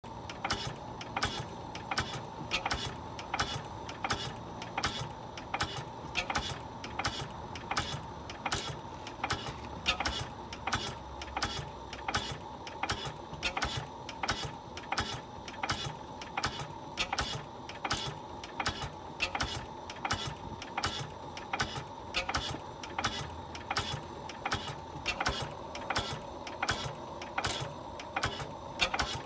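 Early Blackstone 1.5 hp constant-flame oil engine running steadily, its valve gear and combustion making an even rhythm of sharp mechanical knocks.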